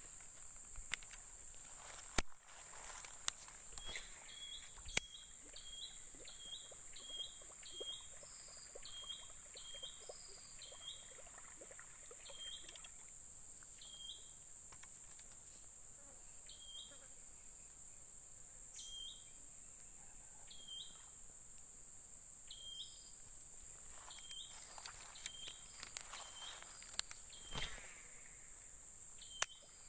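Steady high-pitched insect drone of crickets in the background, with a short high chirp repeated about once a second through most of the stretch and a few sharp clicks and knocks, clustered near the start and again near the end.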